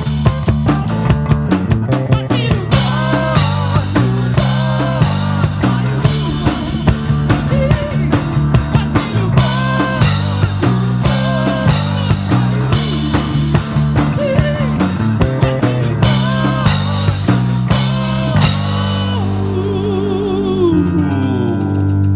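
Live rock band playing with drum kit, bass and a melodic lead line over a steady beat. Near the end the drums drop out and held notes ring on.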